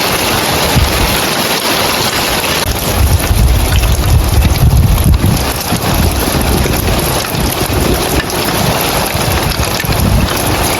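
Heavy rain falling on roof tiles, a dense steady hiss that lightens a little about three seconds in. Gusts of wind on the microphone add low rumbles that rise and fall.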